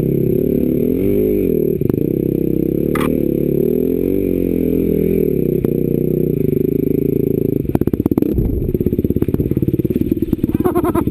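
Off-road dirt bike engine running under a rider, its revs rising and falling, then settling into a low, even chugging from about eight seconds in, with a few clattering knocks as it changes.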